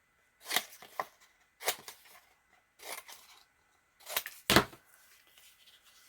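Scissors cutting paper in several short, irregular runs of snips, rough-cutting a piece. There is a louder thump about four and a half seconds in.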